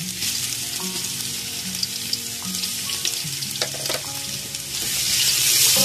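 Garlic paste sizzling as it hits hot oil with fried onions in a pot; the sizzle grows louder near the end. A couple of sharp clicks come about three and a half seconds in.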